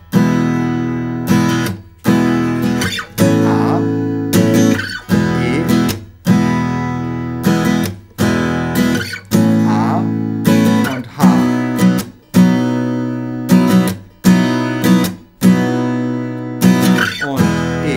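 Acoustic guitar strummed in a down-up pattern, with a short muted stop about every two seconds. It runs through a verse moving between E major, A major and B chords.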